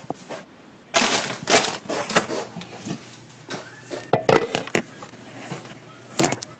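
Irregular crunching and crackling noises in clusters of short, sharp strokes, with a quick double crack near the end.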